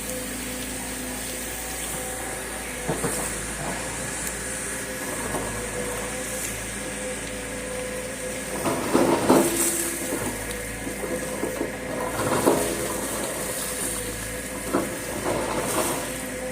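Volvo EC210 excavator running steadily with a constant whine. Louder bursts of rough noise come about nine to ten seconds in and again near twelve and a half seconds as the machine works.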